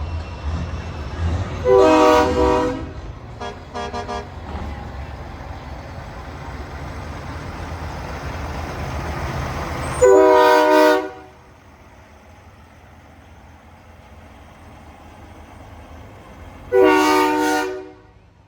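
Semi-truck air horns blowing: three long blasts of about a second each, with two short toots after the first, over the low rumble of truck engines that drops away about ten seconds in.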